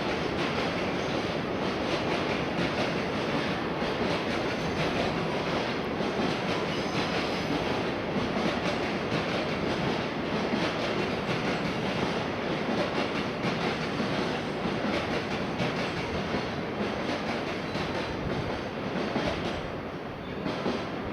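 E1 series double-decker Shinkansen train pulling into a station platform, its steady rolling and running noise easing slightly near the end.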